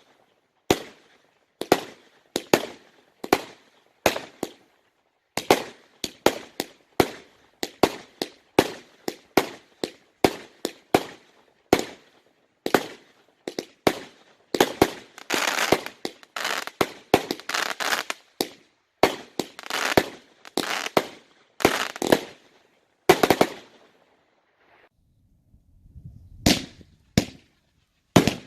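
Consumer fireworks going off: a fast run of sharp bangs, about two a second, thickening to a dense crackling barrage midway. A brief lull with a low rumble comes near the end, then the bangs start again.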